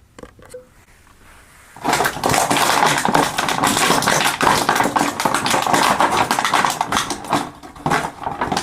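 Stiff plastic packaging crinkling and crackling as it is handled. A few small clicks come first, then about two seconds in a loud, dense run of crackles begins and goes on.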